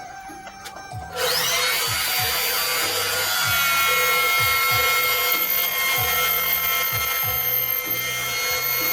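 A homemade grass chopper driven by a salvaged washing-machine motor switches on about a second in, its whine rising as the blade comes up to speed and then holding steady. Background music with a steady beat plays throughout.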